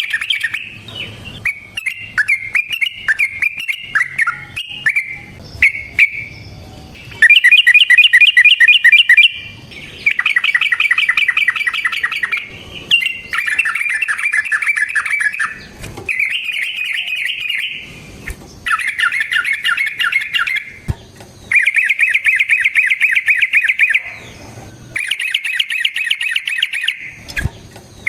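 Yellow-vented bulbul (trucukan) singing in long, fast rolling trills. For the first few seconds the notes are broken and varied; then come a run of rapid repeated-note phrases of two to three seconds each, separated by short pauses.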